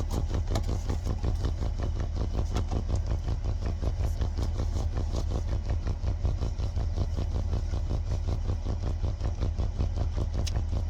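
Steady low rumble of an idling engine, with a fast, even pulse.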